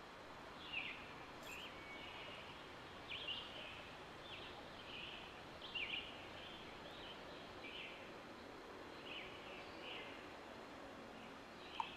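Small birds chirping off and on, short high chirps roughly once a second, some sliding down in pitch, over a faint steady outdoor hiss.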